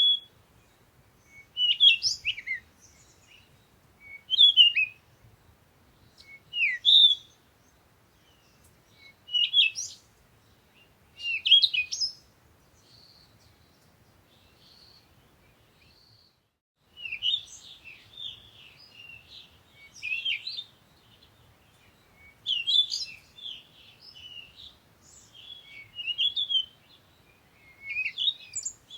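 Songbirds singing: for the first half, short sharp phrases repeat about every two seconds, then after a quiet stretch and a brief break the chirping turns busier and overlapping to the end.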